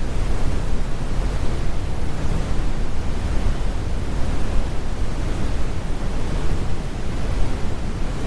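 Steady synthetic brown noise: an even, deep rumbling hiss with most of its weight in the low end and the highs rolled off, unchanging throughout.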